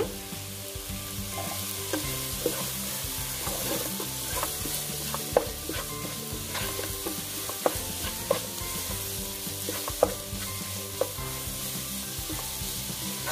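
Chopped onions, green chillies, ginger and curry leaves sizzling in hot oil while a wooden spatula stirs them, with short knocks and scrapes of the spatula against the pan about once a second.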